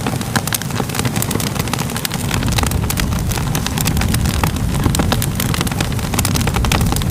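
Crackling fire: a steady low rumble of flames with frequent sharp crackles and pops at irregular moments.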